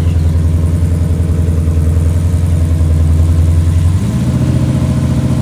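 Chevy S10 pickup's engine running at low speed as the truck creeps forward in first gear into the staging beams; its steady low note changes abruptly about four seconds in.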